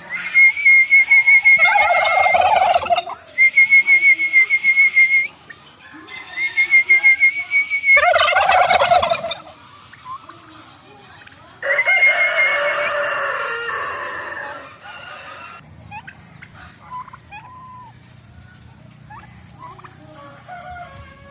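Domestic turkeys gobbling, two loud gobbles about 2 and 8 seconds in, with a high, fast-trilling call repeated in stretches between them and a long call near the middle that fades away; quieter bird chirps follow.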